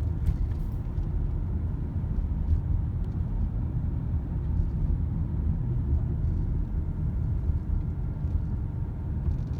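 Loud, steady low rumble with no clear tone.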